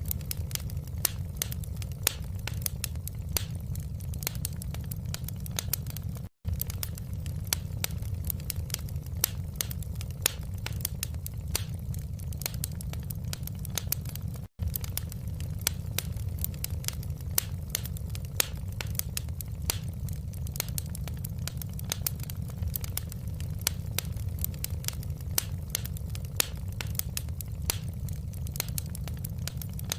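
Wood fire crackling in a fireplace: a steady low rumble of the flames with constant irregular sharp pops and snaps. The sound cuts out for an instant twice, about six seconds in and again near the middle.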